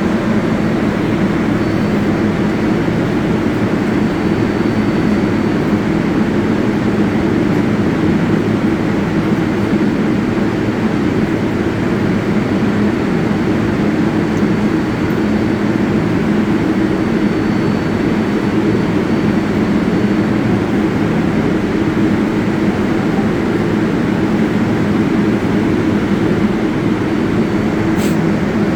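Steady, unbroken rumble and hum of a New York City subway train on the 7 line at the underground Flushing–Main Street terminal, with a short click near the end.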